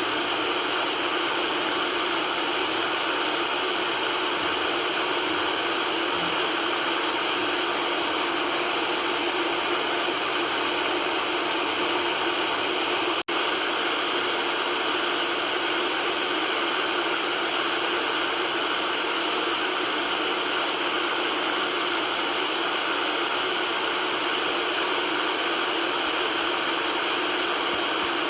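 Steady white noise, an even hiss with little bass, broken by a momentary dropout about halfway through.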